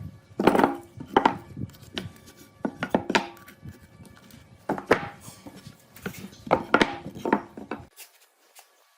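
Irregular sharp knocks and taps of hard objects on a workbench, about a dozen of them, some ringing briefly; they stop about a second before the end.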